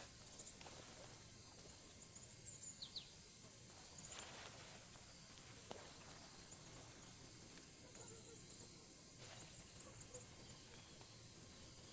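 Faint outdoor ambience: a steady high insect trill, like crickets, with a few short bird chirps and some soft taps.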